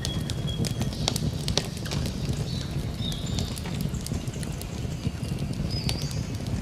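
Campfire burning: a steady low rumble of flames with frequent sharp crackles and pops of burning wood. A few short, high whistled bird notes sound over it.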